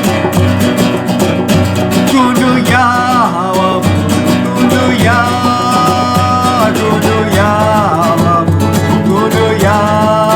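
Acoustic guitar strummed in a steady rhythm through a minor-key chord progression. From about two seconds in, a melody line of long held, gliding notes runs over it.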